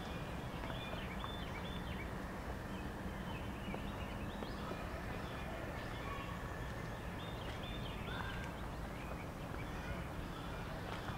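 Birds chirping in short, repeated high calls over a steady outdoor background hum.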